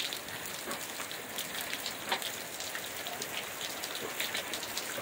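Heavy rain falling steadily on pavement and gravel: an even hiss dotted with many small drop ticks.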